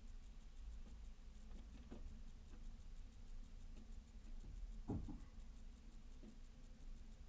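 Faint scattered taps and scratches of small birds pecking seeds at a feeder, with one louder knock about five seconds in, over a low steady hum.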